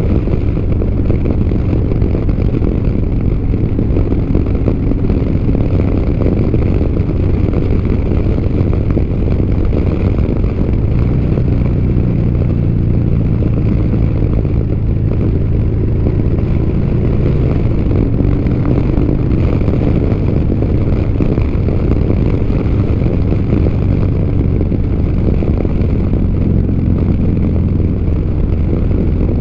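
Motorcycle engine running steadily at cruising speed, mixed with a constant rush of wind noise.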